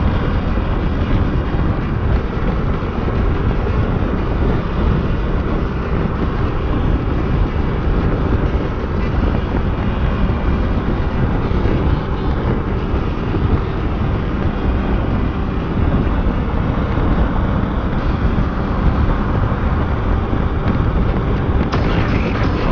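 Motorcycle on the move: steady wind rush on the microphone over engine and road noise.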